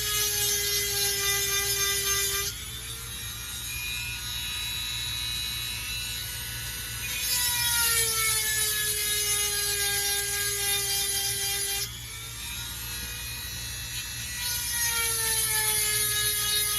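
Dremel rotary tool with a 7/32-inch grinding stone sharpening chainsaw chain cutters. The motor whines steadily, and each time the stone grinds a tooth a harsh high hiss joins it for a few seconds and the motor's pitch sags slightly under the load. This happens three times, with quieter pauses between teeth.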